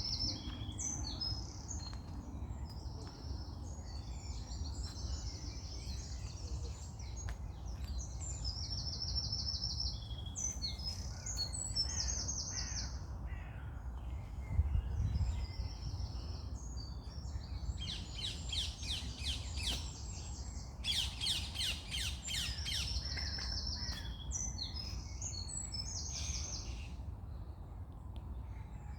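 Several songbirds singing: short high-pitched phrases and rapid trills repeated back and forth, with two fast buzzy trills in the middle, over a steady low background rumble.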